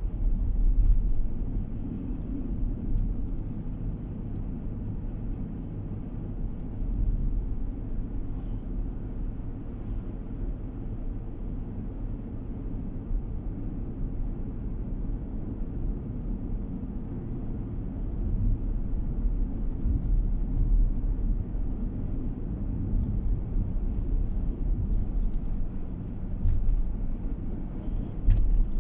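Steady low road and engine rumble of a car driving, heard from inside the cabin, swelling gently now and then.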